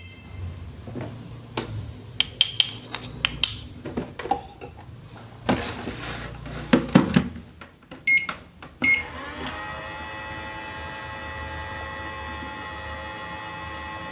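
Clicks and taps of small plastic toy kitchen pieces being handled. Then two short beeps, and from about nine seconds in a steady electronic sound of many held tones.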